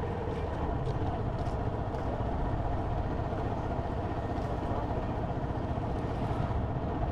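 Motorcycle engine running steadily while riding, with continuous road noise.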